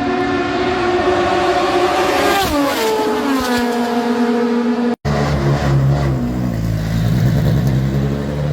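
High-performance car engine and exhaust held at steady high revs, then the pitch falls as the revs drop, about two and a half seconds in. After an abrupt cut, a deeper-sounding engine runs at lower, roughly steady revs.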